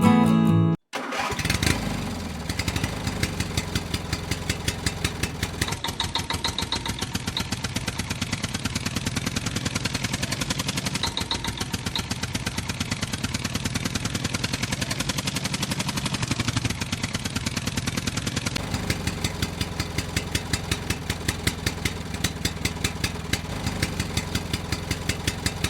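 A small engine starts about a second in, then runs steadily with an even putter of several beats a second.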